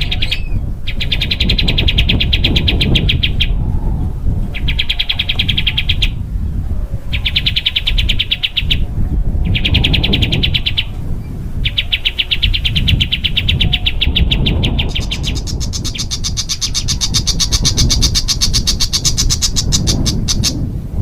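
A songbird singing very fast, rattling trills ('tembakan') in repeated bursts of one to three seconds with short pauses, then one longer, higher-pitched trill of about five seconds near the end. A low rumble runs underneath.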